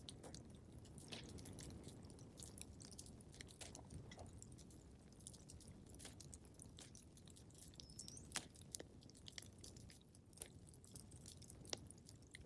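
Wood fire crackling in a fireplace: a soft low rumble with irregular sharp pops and snaps, the loudest a little after the middle and near the end.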